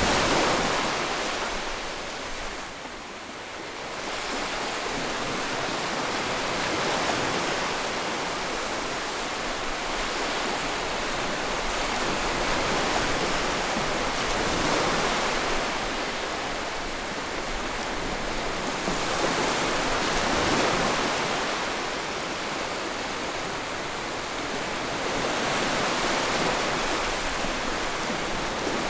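Ocean waves breaking and washing in: a continuous rushing surf that swells and falls back every few seconds.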